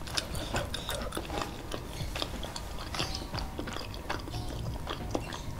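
Close-miked chewing and mouth sounds: irregular wet clicks and smacks, with a plastic straw-lid water bottle being handled.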